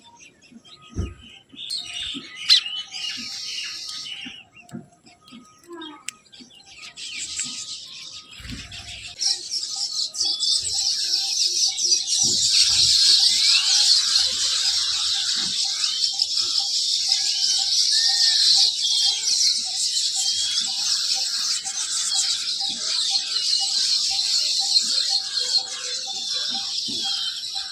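Many small birds chirping at once, scattered at first with a few soft knocks, then building about nine seconds in to a dense, unbroken chatter of high chirps.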